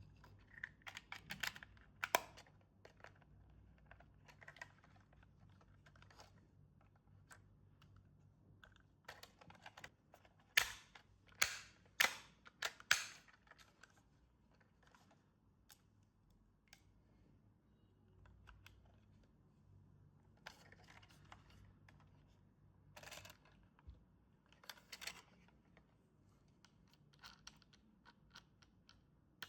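Toys and their packaging being handled during unboxing: scattered clicks, taps and short rustles, with a cluster of louder sharp clicks about halfway through.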